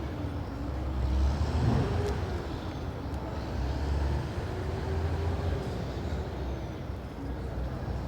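Street traffic: a motor vehicle's engine rumbling as it passes, its pitch slowly rising and falling over a general traffic noise.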